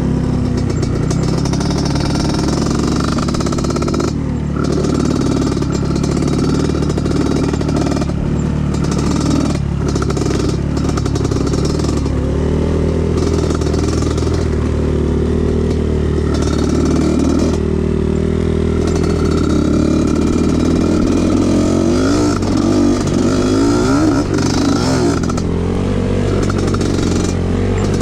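Off-road trail motorcycle engine running under changing throttle, its revs rising and falling.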